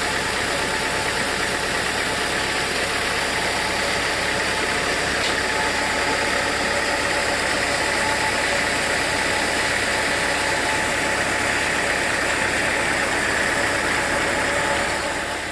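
Sawmill machinery running steadily, with an even engine-like drone and a faint constant whine above it.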